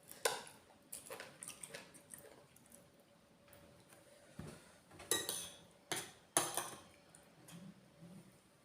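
Cutlery clinking and scraping against a dish while eating, several sharp clinks with short ringing tails; the loudest come near the start and around two-thirds of the way through.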